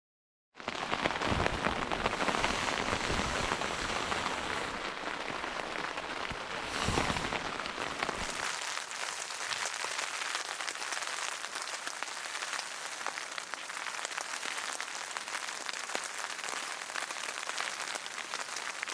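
Steady rain falling, a dense spatter of many small drops. It starts suddenly about half a second in, and the deeper rumble under it fades out about eight seconds in.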